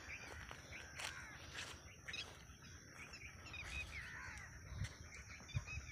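Birds chirping and calling in many short, faint chirps, over a steady high-pitched hiss, with a couple of dull low thumps near the end.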